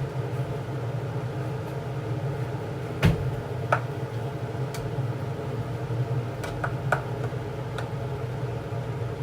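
Steady low hum of a running kitchen appliance, with a handful of short sharp clicks and knocks scattered through, the loudest about three seconds in.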